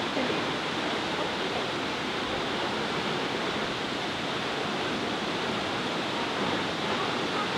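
Steady, unbroken rush of Nachi Falls, a waterfall with a 133 m drop.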